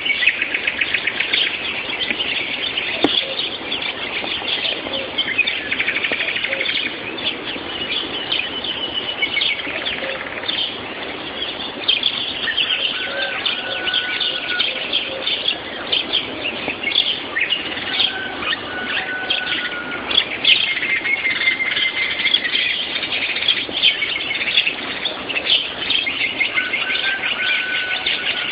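Morning dawn chorus: many songbirds singing at once, a dense run of overlapping chirps and trills with a few short held whistles, heard through a mobile phone's microphone.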